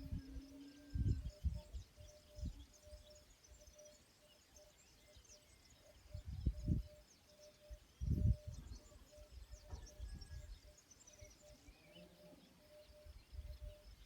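Small birds chirping and twittering high and thin, over a faint pulsing note repeating a few times a second. Low rumbling surges come and go, the strongest about six and eight seconds in.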